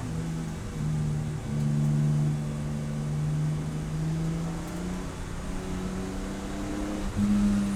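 Race car engine running at low, fairly even revs, its pitch stepping up or down a few times rather than sweeping through a full rev range.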